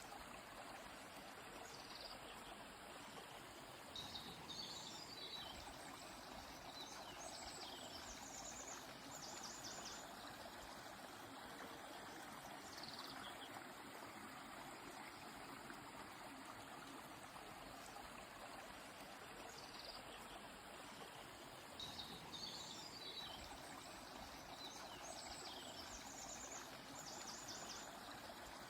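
Steady rush of a flowing river or stream, with songbirds singing over it: high chirps and short rapid trills in a cluster a few seconds in, and a near-identical cluster again about twenty seconds later.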